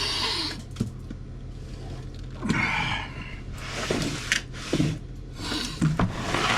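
A man breathing hard in a series of audible breaths and gasps, one about every second or two, while very cold from an ice bath.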